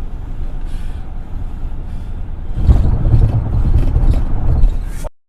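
Low road and engine rumble inside a moving police car's back seat, growing louder about halfway through, then cutting off suddenly near the end.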